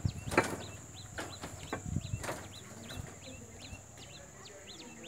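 Small birds chirping over and over, short high falling notes a few times a second, over a steady high hiss. A few sharp knocks come in the first couple of seconds, the loudest about half a second in.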